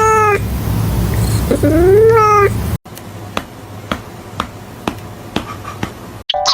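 Cat meowing twice, a short meow and then a longer one that rises and falls, over a steady low hum. After a sudden cut, faint ticks at about two a second.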